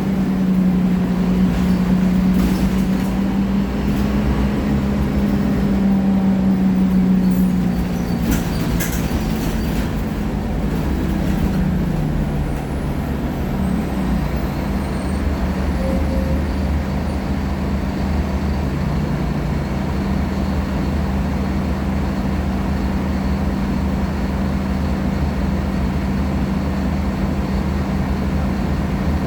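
Scania K310IA articulated bus's five-cylinder diesel engine running under way, its steady note sagging and dropping away about ten to thirteen seconds in, then picking up again and holding steady, with a faint high whine joining it.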